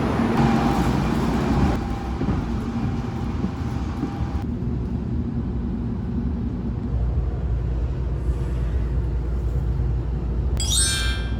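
Train running, a steady low rumble that grows heavier in the second half, with a brief rising whine near the end.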